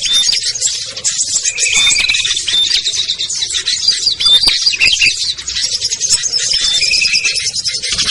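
Dense chorus of many small songbirds, such as prinias and bulbuls, chirping and trilling rapidly and without pause, with short clear whistled notes now and then. It is a mixed bird-lure recording for calling down small wild birds.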